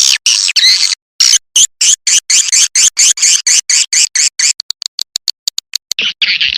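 Recorded calls of edible-nest swiftlets, the lure sound played at swiftlet houses: a fast, even run of short, high chirps, several a second, that turns into quicker, thinner clicks about two thirds of the way through before the chirping starts again.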